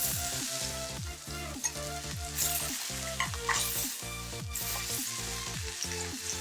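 Beef searing in a turk iron frying pan, a steady sizzle of hot fat with a few louder surges, under electronic dance music with a steady beat.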